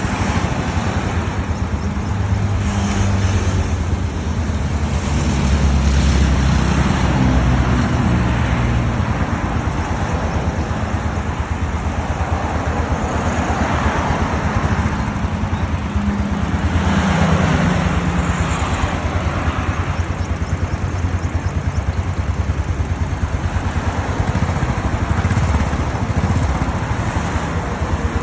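Royal Enfield Classic motorcycle with sidecar, its single-cylinder engine running with a steady, rapid low pulse. The engine note shifts up and down a couple of times.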